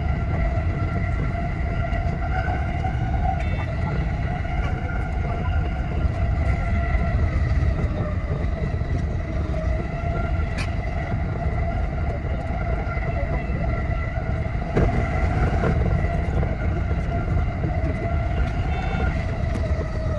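Cab sound of a JR East E233-0 series electric train running at speed: a steady low rumble of the wheels on the rails, with a whine held at one pitch throughout and a single click about halfway through.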